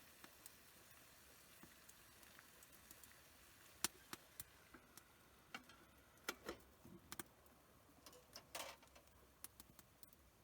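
Faint, sharp clicks and ticks at irregular intervals over a quiet background, about a dozen of them, with a slightly longer crackly patch near the end.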